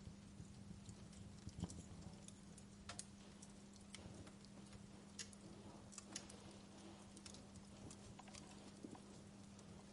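Faint fireplace crackle: irregular sharp pops and snaps of burning wood, a few a second, over a steady low hum.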